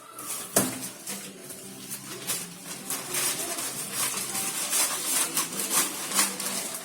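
Irregular clicks and knocks, with one sharp click about half a second in, over a steady hiss.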